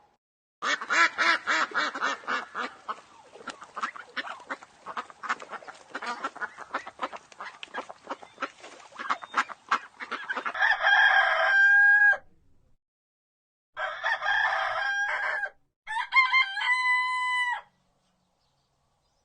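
Chickens clucking and cackling in quick repeated calls for about ten seconds, then a rooster crowing three times, each crow a long call that drops in pitch at the end.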